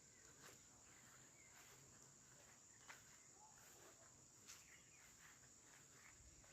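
Near silence: a faint, steady, high-pitched insect drone, with three faint clicks.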